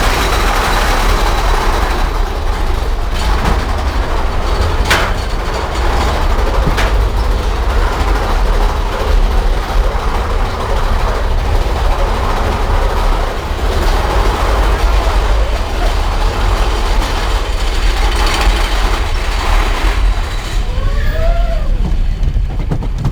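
Big Thunder Mountain Railroad mine-train roller coaster running along its track: a steady, heavy rumble of wheels on the rails, with a couple of sharp clacks about five and seven seconds in.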